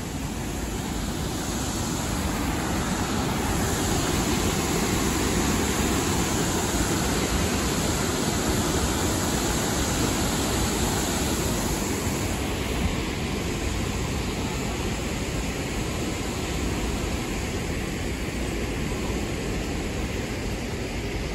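Steady rushing and rumbling noise of a sightseeing trolley train running, heard from its open-air car, swelling a little and easing off again.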